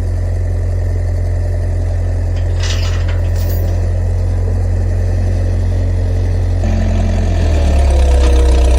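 Engine idling steadily, then picking up revs and getting louder from about seven seconds in, with a couple of faint clinks about three seconds in.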